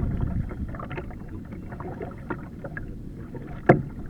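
Water splashing and lapping around a kayak, louder at first and then easing off, with scattered small knocks and one sharp knock near the end.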